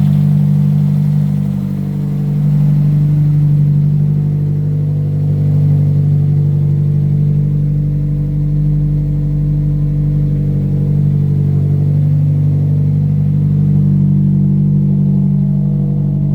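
Toyota 4A-GE 20-valve blacktop inline-four idling steadily on a cold start, heard from under the hood with its intake drawing through open velocity stacks.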